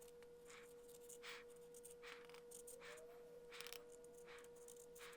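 Faint short strokes of a marker pen writing on the tops of the pistons, several separate scribbles a second or so apart, over a faint steady hum.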